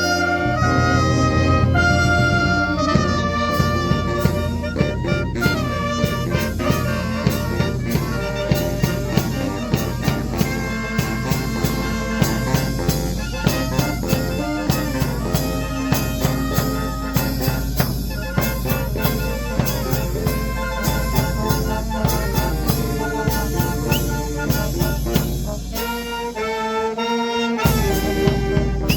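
Brass-and-drum fanfare band playing a lively march-like tune, trumpets and trombones over a steady drum beat of about two strokes a second. Near the end the bass drum drops out briefly, then comes back in with the full band.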